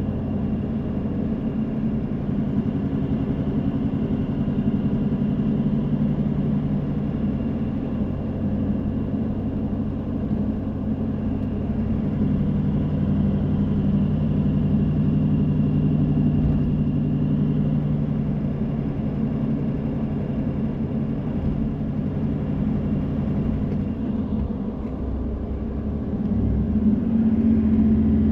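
Car driving: steady engine hum and road noise. Near the end it dips briefly, then settles into a louder, steadier hum.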